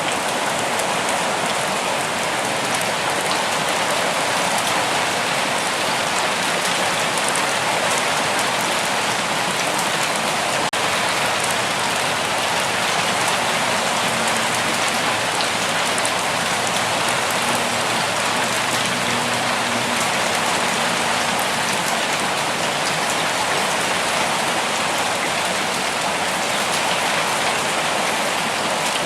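Steady rain falling in a forest, an even, unbroken hiss of drops.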